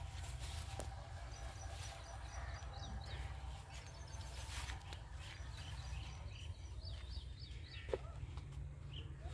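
Small birds chirping in short, scattered calls over a steady low rumble, with a single sharp tick about eight seconds in.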